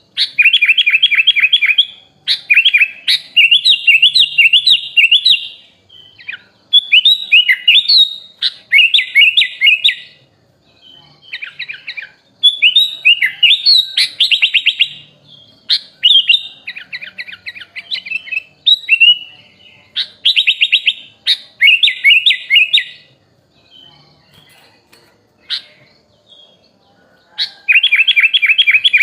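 Sooty-headed bulbul (kutilang) singing in loud bursts of rapid chattering trills and whistled phrases, each lasting a second or two. The song is laced with phrases imitated from other birds. There is a lull of a few seconds about 23 seconds in.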